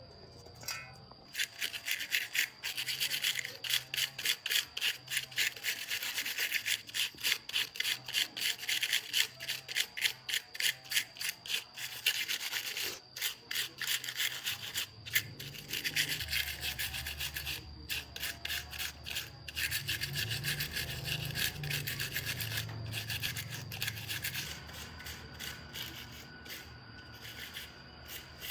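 Hand sanding: quick back-and-forth abrasive strokes, about three a second, starting about a second in and growing sparser near the end, with a low hum joining about halfway.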